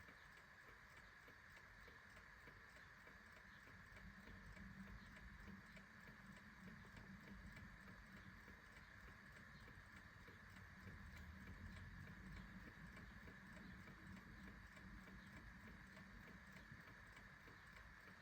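Clock ticking steadily and faintly, over a low rumble that grows louder about four seconds in.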